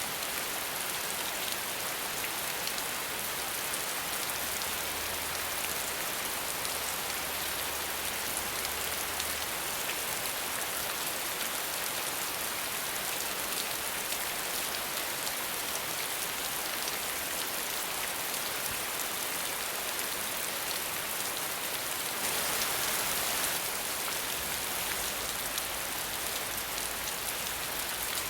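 Steady rain falling without thunder: a dense, even hiss of drops, with a brief louder swell late on.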